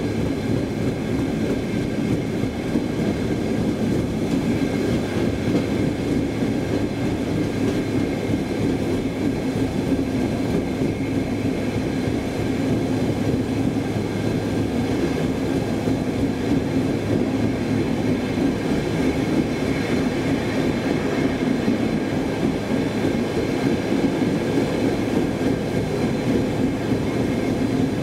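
Steady running rumble of a Saltsjöbanan C10 electric commuter train under way, heard from inside the carriage. A faint steady high whine sits over it.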